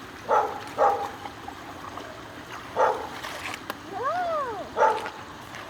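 A dog barking in four short single barks, with one rising-and-falling whine just before the last bark.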